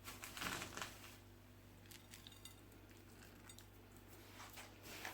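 Faint light clinks and knocks of kitchenware being handled, a short cluster in the first second and a few scattered ticks after.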